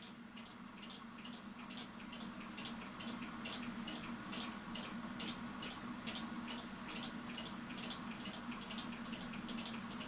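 Faint, even ticking of a clock, about two to three ticks a second, over a low steady hum.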